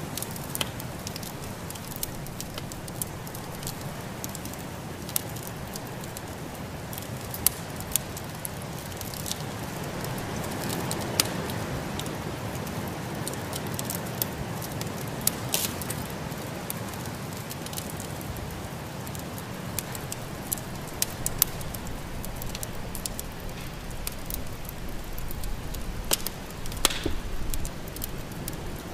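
Wood fire in a fireplace crackling: sharp pops at irregular intervals over a steady hiss.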